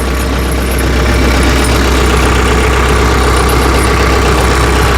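Tractor engine idling steadily with a constant low hum.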